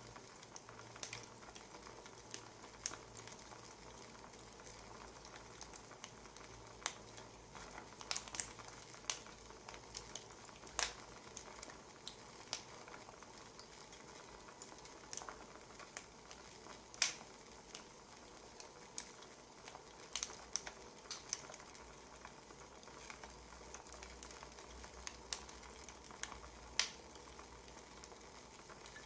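Wood fire crackling: irregular sharp pops and snaps, some much louder than others, over a steady faint hiss.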